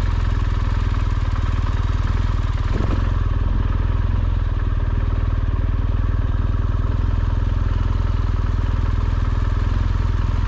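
BMW R1200GSA's boxer-twin engine running at a steady pace while the motorcycle is ridden slowly over sand, with a short knock about three seconds in.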